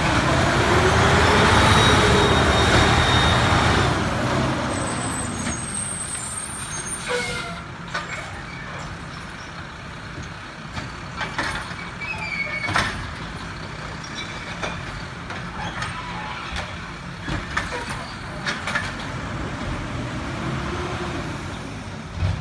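Garbage truck passing: its engine loud at first with a high squeal over it, fading after about four seconds, then a lower rumble with scattered clanks and knocks.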